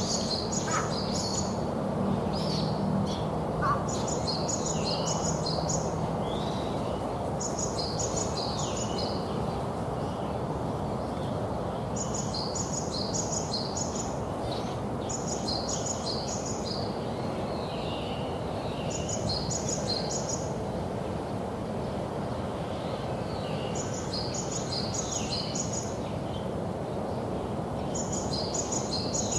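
A songbird singing the same short, rapid, high-pitched phrase over and over, about every three to four seconds, over a steady background rumble.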